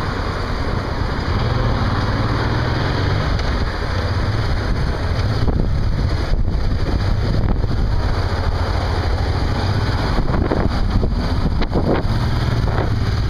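Wind buffeting a moving camera's microphone: a steady low rumble with road and traffic noise underneath.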